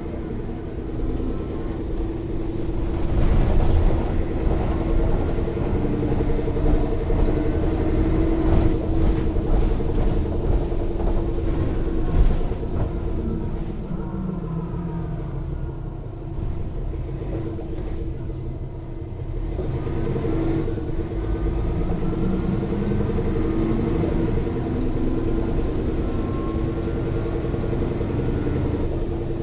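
Interior of a Mercedes-Benz O 405 N1 low-floor city bus under way: the loud diesel engine runs steadily, with a thin differential (rear-axle drive) whine rising and falling with road speed, and rattling from the body. The bus eases off around the middle and then pulls away again.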